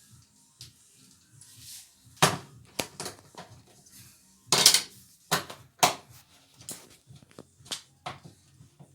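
Kitchen utensils and dishes being handled: a series of sharp knocks and clatters, the loudest about halfway through.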